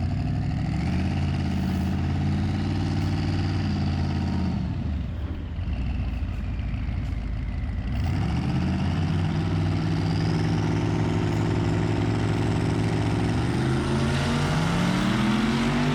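Twin-turbo 6.0 V8 in a Ford Mustang at full throttle on a drag strip pass, its engine note holding steady. The sound thins out for a few seconds in the middle, then returns, and the pitch rises near the end.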